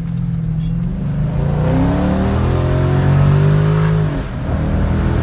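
Car engine heard from inside the cabin, accelerating hard: its pitch climbs, dips briefly about four seconds in, then picks up again.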